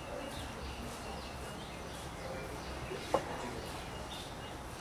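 Faint chirping of small birds over a steady low background hum, with one sharp click about three seconds in.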